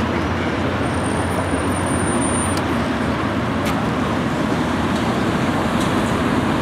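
Steady mix of many motor vehicle engines running with road noise.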